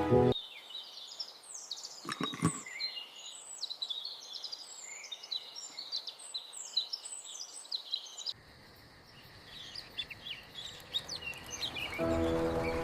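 Small birds chirping and twittering over a faint outdoor background, with a short thump about two seconds in. Soft music comes back in near the end.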